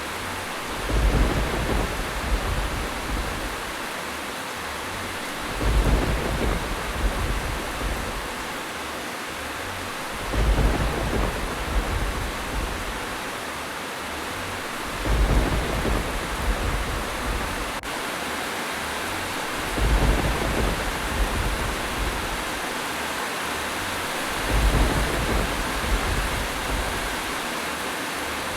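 Steady rain with a low rumble that swells up and fades every five seconds or so, six times over, at such even spacing that it sounds like a looped recording.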